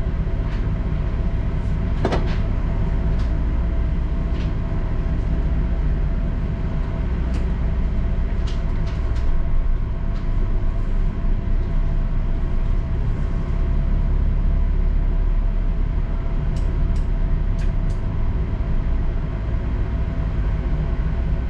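Ship's engines and machinery running with a steady low drone and a constant hum, with a few short clicks here and there.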